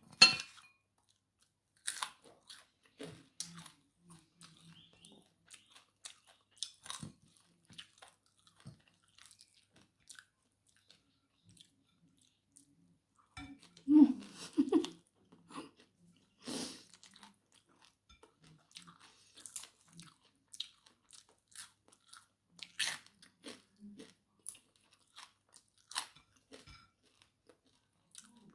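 Chewing and crunching of a meal of rice and fried fish eaten by hand, with scattered mouth clicks and smacks. The loudest bout comes about halfway through, as a handful of food goes into the mouth.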